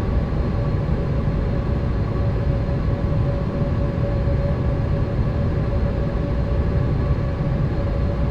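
Steady cabin noise inside a Boeing 787: the even roar of the engines and airflow, with a constant hum running through it.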